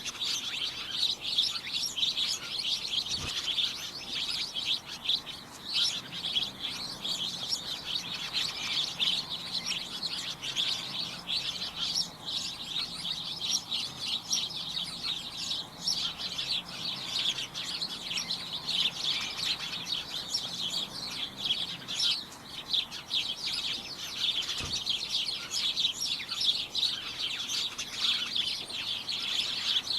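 Several birds chirping and tweeting at once in a cacophonous, continuous chorus of rapid high chirps.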